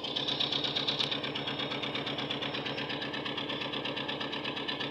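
Toyota Hilux 3RZ 2.7-litre four-cylinder petrol engine idling steadily with a misfire that new spark plugs have not cured; the owner traces it to cylinder 4.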